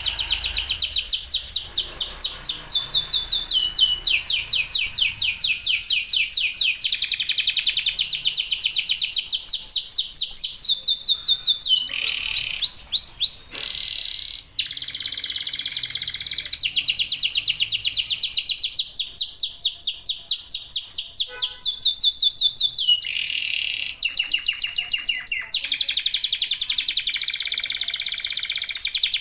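Male canaries singing: long, fast trills of repeated high notes, each trill changing to a new note type every few seconds, with more than one bird singing together.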